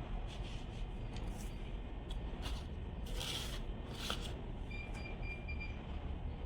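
Steady low rumble with a few short clicks and a longer scraping sound about three seconds in.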